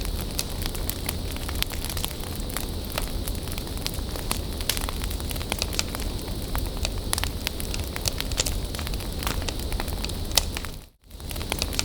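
Wood bonfire burning: a steady hiss and low rumble with frequent, irregular sharp crackles and pops. The sound drops out for a moment about eleven seconds in, then resumes.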